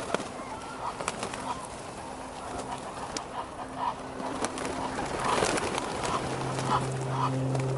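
Pigeons cooing, with scattered short clicks and a low steady hum coming in about six seconds in.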